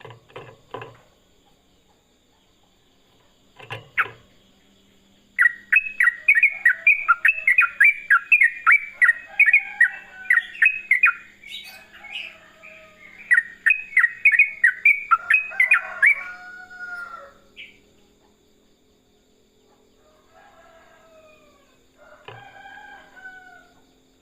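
Yellow-vented bulbul singing a fast, rolling run of rapid repeated notes in two long bouts with a short break between them, then a few shorter phrases near the end. Two brief knocks come before the song starts.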